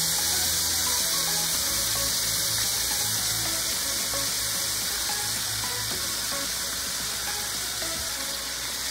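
Cooked shrimp sizzling in hot olive oil in a stainless steel pot: a steady frying hiss that eases slightly toward the end.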